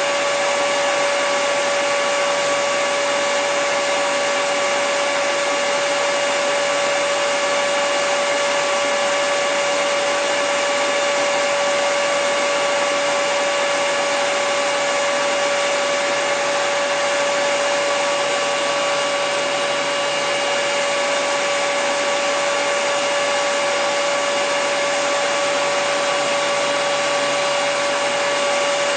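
Handheld hair dryer running continuously at a constant setting: a steady rush of air with a steady motor whine over it.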